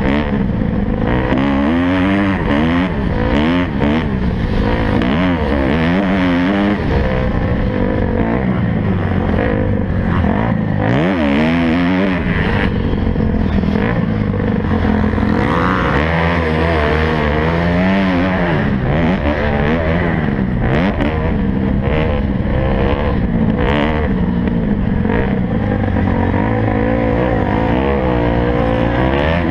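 Motocross bikes racing, their engines revving up and falling away over and over, with several bikes often heard at once.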